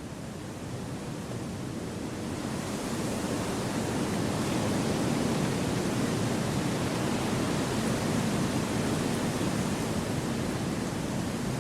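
Wind rushing through forest trees: a steady, even rush that swells over the first few seconds and then holds.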